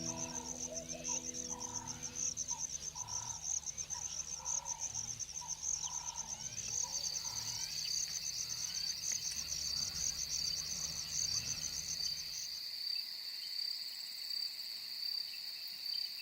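Evening insects trilling: a steady, fast-pulsing high chirr, taken over about halfway through by a second, slightly lower pulsing trill. A soft call repeats about once a second through the first half, and a few fading music notes sound at the very start.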